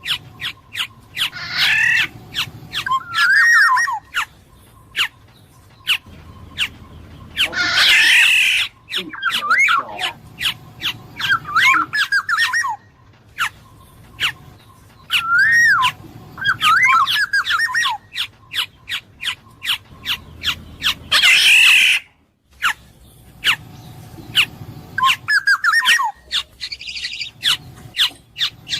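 Black-naped oriole (kepodang emas) singing: short fluty whistled phrases that slide up and down, broken twice by a loud harsh, nasal call. A rapid string of sharp clicks runs under the song.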